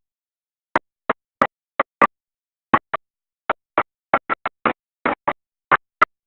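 Short fragments of engine noise, about two to four a second and irregularly spaced, separated by dead silence: the audio keeps dropping out.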